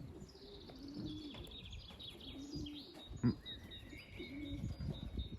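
Pigeons cooing in short, low coos several times, with small songbirds chirping and trilling higher up. A sharp knock about three seconds in is the loudest sound.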